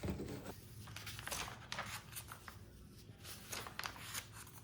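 Plastic bags of Lego pieces being handled, crinkling and rustling, with scattered light clicks and rattles.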